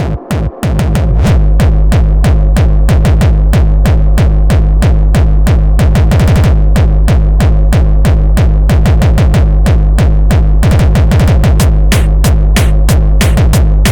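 Hardcore electronic dance track at 186 BPM: a heavy kick drum comes in about a second in and runs on at a fast, even beat under synth lines, with rapid drum-roll fills near the middle and again about three-quarters through.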